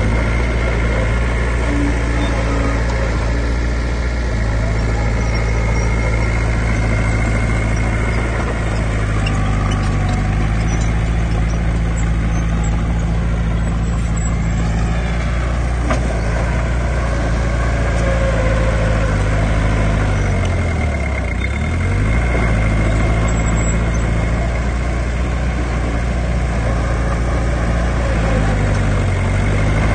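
Heavy diesel engine of earthmoving machinery running steadily, its note briefly dropping and climbing back about two-thirds of the way through and again near the end.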